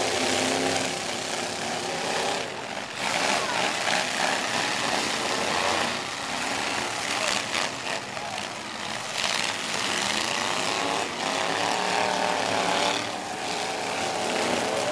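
Demolition-derby truck engines running hard and revving, their pitch rising and falling, with a few short bangs around the middle.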